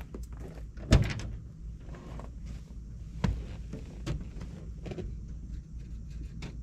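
Pickup truck door handled as someone gets in to start it: a loud sharp thump about a second in, a smaller knock a couple of seconds later, and light clicks and knocks between.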